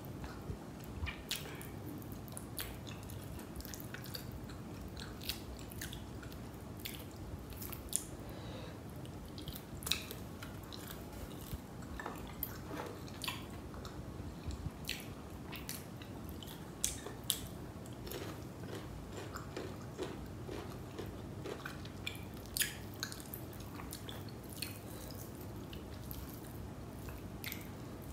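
Close-miked mouth sounds of someone eating biryani rice and chicken masala by hand: chewing with irregular sharp lip smacks and clicks over a steady low background noise.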